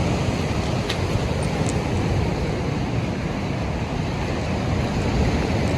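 Wind blowing on the microphone over the steady wash of sea surf.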